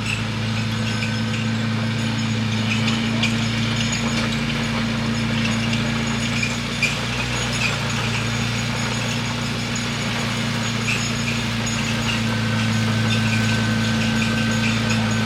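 Bulldozer's diesel engine running steadily, with scattered light metallic clinks. It grows a little louder over the last few seconds.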